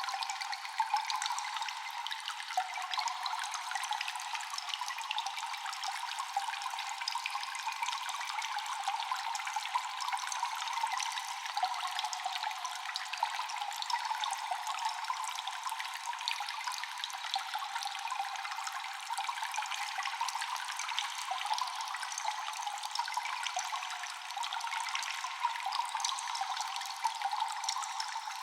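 Water dripping constantly and echoing in a cave: many small drops falling in quick, irregular succession over a steady trickling hiss, with no low rumble.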